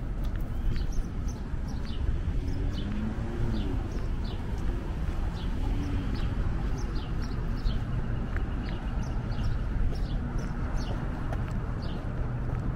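Small birds chirping, short notes that fall in pitch, about two a second at uneven spacing, over a steady low rumble of city traffic.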